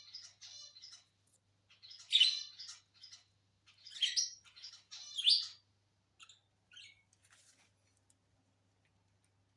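Pet lovebirds chirping in short, high-pitched calls, with three louder, squawky bursts in the first half and fewer, fainter chirps after that.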